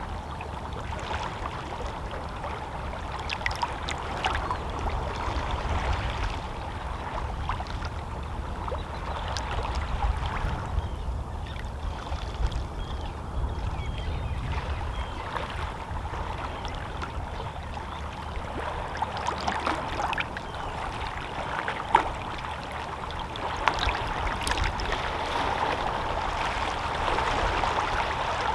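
Small, lazy sea waves lapping against shoreline rocks: a steady wash of water broken by frequent small splashes and trickles, one a little sharper about two-thirds of the way through.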